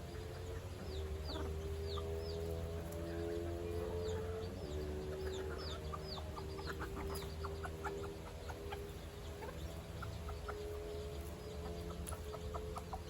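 Chickens clucking in short, rapid clucks that grow busier from the middle on, with quick high chirps of small birds above them in the first half.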